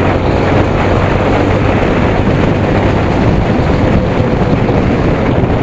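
Wind rushing over the microphone of a moving motorcycle, with a steady low engine hum underneath.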